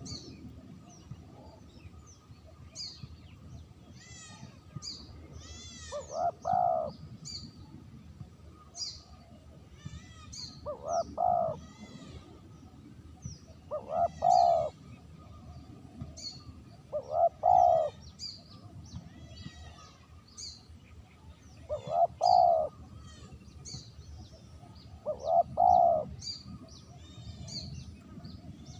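Spotted dove (terkukur) cooing, a short phrase of a few low coos given six times, every three to five seconds. Small birds chirp in the background.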